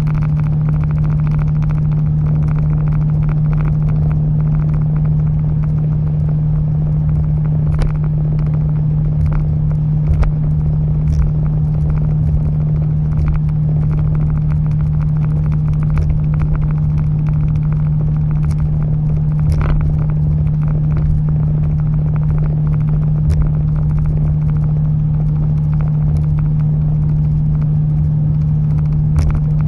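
Exhaust drone inside the cabin of a 1996 Toyota Celsior with a custom exhaust: its 4.0-litre V8 held at steady revs gives one loud, unchanging low hum over a low rumble.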